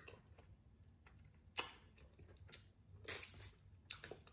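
Close-miked eating sounds of spicy seafood ramen: quiet chewing broken by a few short, sharp mouth noises. The loudest comes about a second and a half in, and a longer hissing one about three seconds in.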